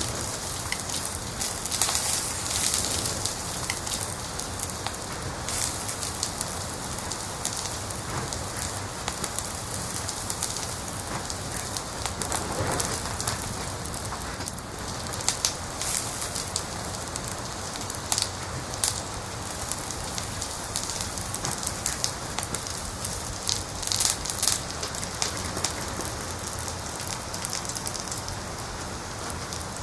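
Wood fire crackling in a fireplace: a steady hiss with scattered sharp pops, in small bunches about halfway through and again near the end.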